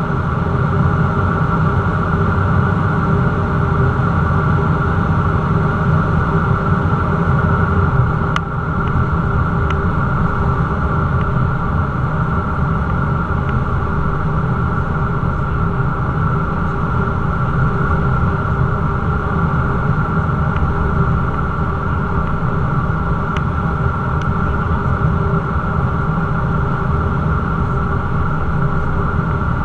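Cessna 172's piston engine and propeller running steadily, a continuous drone, with a brief click and dip in level about eight seconds in.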